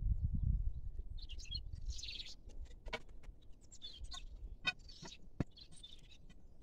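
Small birds chirping in about half a dozen short bursts, with a few sharp clicks or knocks between them and a low rumble in the first second.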